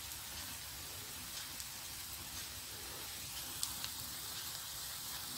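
Thick vegetable omelette frying in oil in a pan: a steady soft sizzle with faint scattered crackles.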